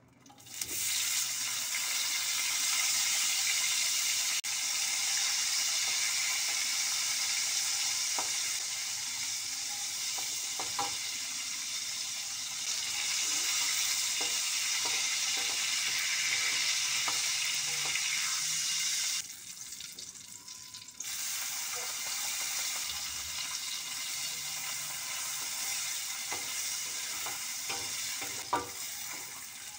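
Loud sizzling of tomatoes, chillies and garlic hitting hot oil in a cast-iron wok, starting suddenly as they go in and continuing steadily, with scattered clicks of a metal strainer ladle and spatula against the wok. Near the two-thirds mark the sizzle drops away for about two seconds, then resumes as small dried anchovies fry in the oil.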